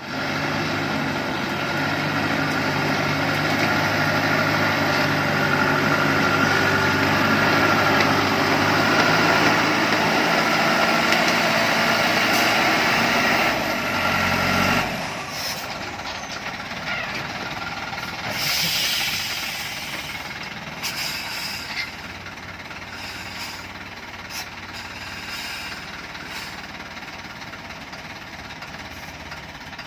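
Dongfeng truck's diesel engine running loudly for about fifteen seconds, then dropping abruptly to a much quieter steady rumble with scattered clicks and knocks.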